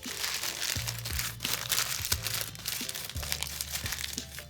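Paper being crumpled and squeezed by hand into a ball, crackling steadily, over background music.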